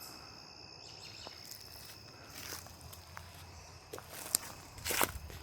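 Footsteps crunching through dry fallen leaves, faint at first and louder and closer together near the end. Under them, a steady high insect trill is heard, strongest in the first second.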